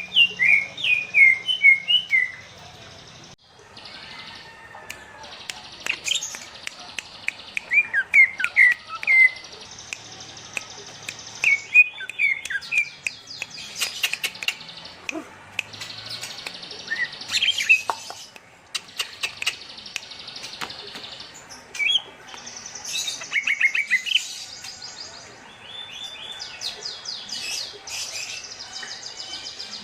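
Kept songbirds chirping and singing in bursts of quick, up-and-down notes, with short pauses between phrases.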